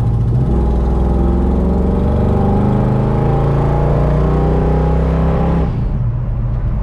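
Ford Ranchero's carbureted V8 accelerating under load, its pitch climbing steadily for about five seconds, then falling away suddenly near the end as the throttle comes off.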